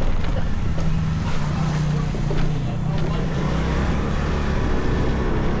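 Motorcycle engine running under way, a steady low drone over road and wind noise; the engine note strengthens about a second in and holds for a couple of seconds before easing. A few sharp clicks sound through it.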